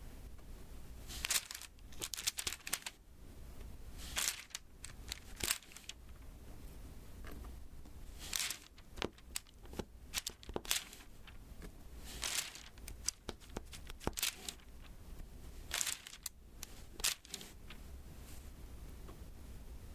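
Diamond painting canvas being handled: irregular sticky crackles and crinkles from its adhesive surface, coming in uneven clusters with short pauses between them.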